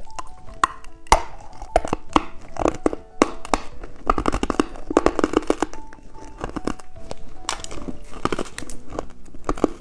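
Candy packaging being handled and opened: crinkling and tearing with many sharp clicks and taps, over light background music.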